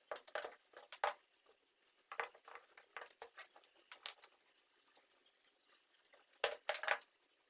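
Irregular light clicks and knocks of small hard parts being handled, with a quick cluster of louder knocks near the end.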